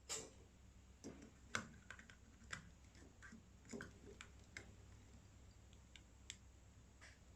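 Faint scattered metallic clicks and taps as the clip-held mesh shower screen on a lever espresso machine's group head is worked loose, about a dozen in all, the loudest at the start and about a second and a half in.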